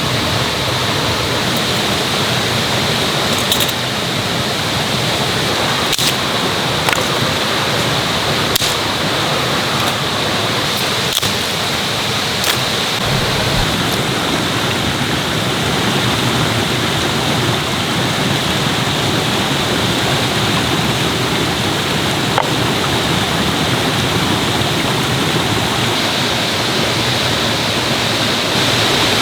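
Mountain stream rushing steadily over rocks, with a few faint clicks in the first half.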